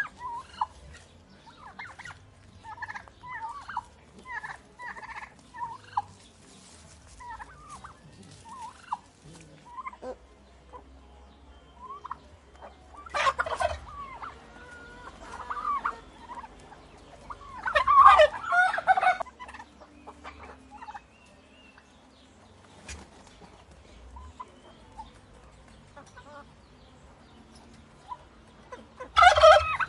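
Turkeys gobbling: two loud rattling gobbles at about 13 and 18 seconds in and another starting near the end, with softer short calls between them.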